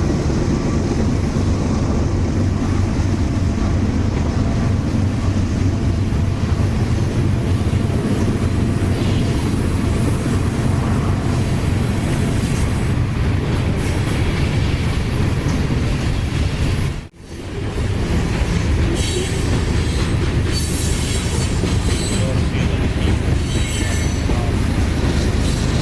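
Freight train rolling past, its steel wheels running steadily on the rails. About two-thirds of the way through, the sound briefly drops out and then resumes.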